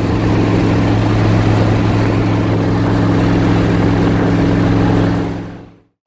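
A vehicle engine running at a steady speed, its pitch holding constant, then fading out quickly near the end.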